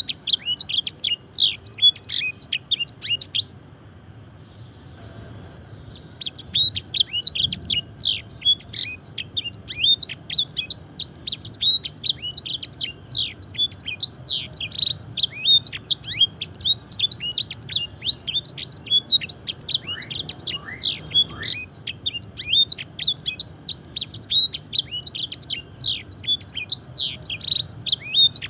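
Domestic canary singing a fast, continuous song of rapid, sharply falling whistled notes in blackthroat-style phrasing. The song breaks off briefly a few seconds in, then resumes and runs on unbroken.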